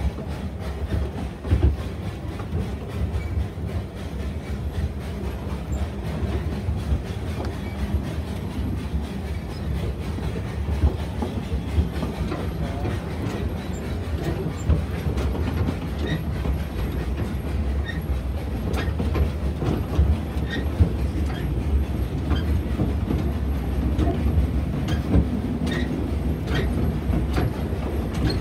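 Narrow-gauge railway car rolling along the track, heard from its open-sided passenger car: a steady low rumble of wheels on rail with scattered clicks and knocks.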